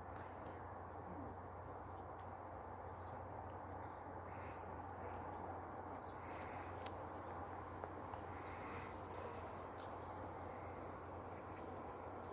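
Faint steady background hiss and hum, with a few soft clicks and some faint short high sounds.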